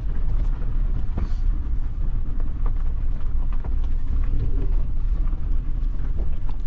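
Maruti Suzuki Jimny driving over a rough mountain road, heard from inside the cabin. There is a steady low engine and road rumble, with scattered knocks and rattles from the bumpy surface.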